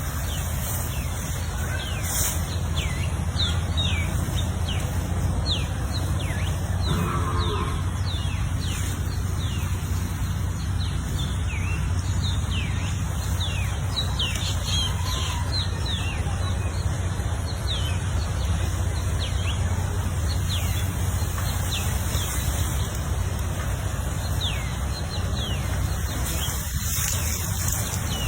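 Small birds chirping, many short falling chirps repeating a few times a second, over a steady low rumble.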